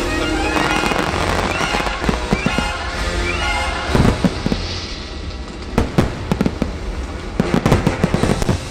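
Aerial fireworks bursting and crackling over the show's music, with the bangs coming thickest in a rapid cluster near the end.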